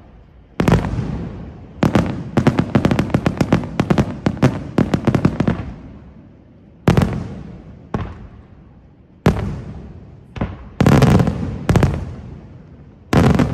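Aerial firework shells bursting. A sharp bang comes about half a second in, then a rapid run of reports lasts about four seconds, followed by separate bangs every second or so and a dense cluster near the end, each with an echoing tail.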